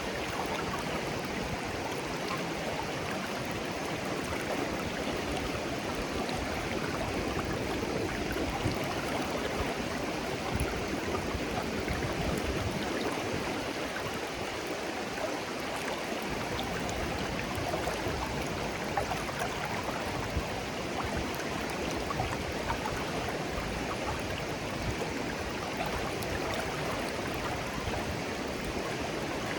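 Shallow clear stream flowing steadily over stones, a continuous burbling rush of water with small trickles and splashes.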